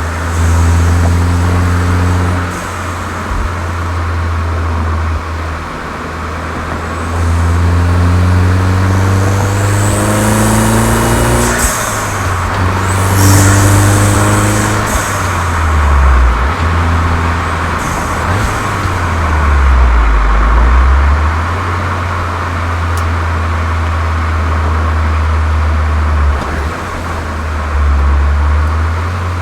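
Volkswagen Golf 7 GTI's turbocharged four-cylinder running through a Cox aftermarket exhaust: a loud, low drone whose pitch climbs steadily twice, each climb cutting off abruptly about eleven and fifteen seconds in, then dipping and settling back to a steady low note.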